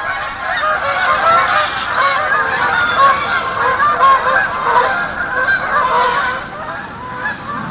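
A large flock of geese honking, many calls overlapping at once, thinning out and fading near the end.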